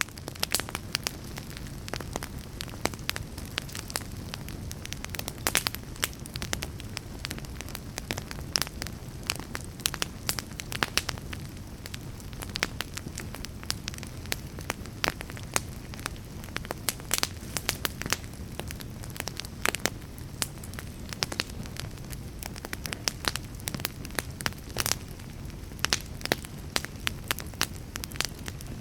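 Fire crackling: a steady low hiss and rumble with many sharp pops and snaps, several a second, at irregular intervals.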